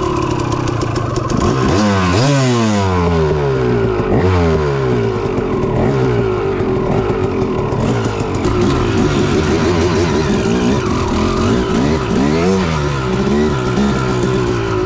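Dirt bike engine running under riding, its pitch rising and falling over and over with the throttle, with the strongest sweeps in the first few seconds and again near the end.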